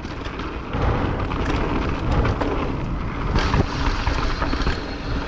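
Wind buffeting the microphone of a camera on a mountain bike rolling down a trail, with tyre noise and many small clicks and rattles from the bike over rough ground.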